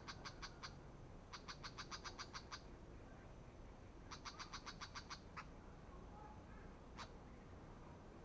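Brown shrike's harsh chattering call: three bursts of rapid rattling notes, about nine a second, then two single sharp notes. The call is faint.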